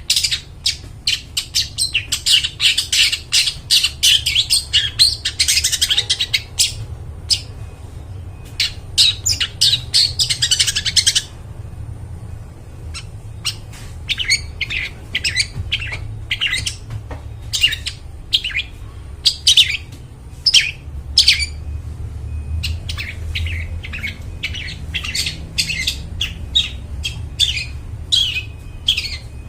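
Long-tailed shrike calling: fast runs of short, sharp chattering notes that stop for a couple of seconds about eleven seconds in, then resume as more spaced, separate notes, over a low steady hum.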